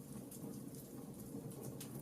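Wood fire crackling in a fireplace: scattered sharp pops and snaps, a few a second, over a steady low rumble.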